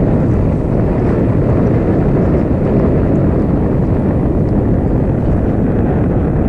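Steady low rumble of wind buffeting the microphone, loud and unbroken.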